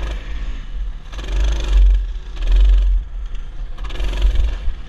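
Mini bike engine revving in three surges while riding, over a constant heavy low rumble.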